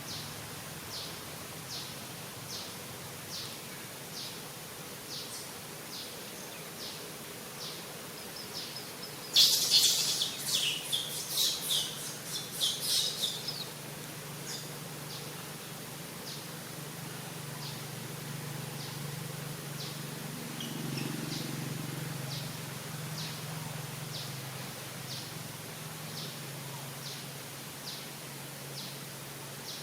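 Birds calling outdoors: a short high note repeats about once a second, and a loud burst of rapid chirps starts about ten seconds in and lasts about four seconds. A low hum runs under the second half.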